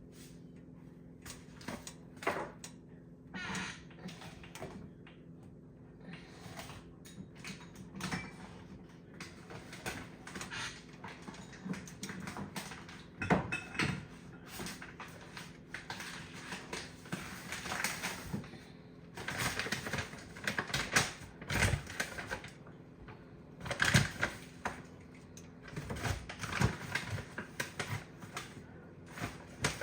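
Irregular clicks and knocks of a kitchen utensil working in a cooking pot, busier and louder in the last third, over a steady low hum.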